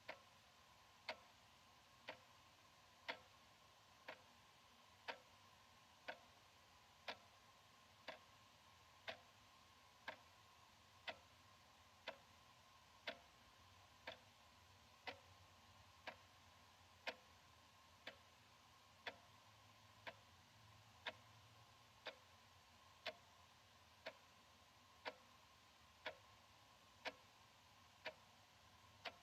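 Analog wall clock ticking steadily, one sharp tick about every second.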